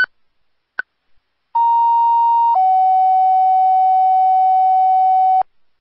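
Two-tone sequential paging tones on the fire dispatch radio: a steady tone held for about a second, then a lower tone held for about three seconds, which sets off a fire department's pagers for a dispatch. A short beep sounds just before the tones.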